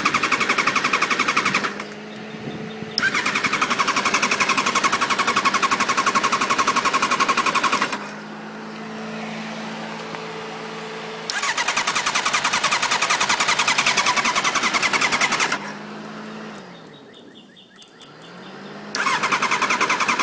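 1994 Suzuki GSX-R750's electric starter cranking the engine in four separate attempts, each a loud fast chatter that starts and stops abruptly, lasting from about two to five seconds. A quieter steady hum fills the gaps between attempts. This is a hard-starting fault that the owner has not traced, although the plugs are getting spark.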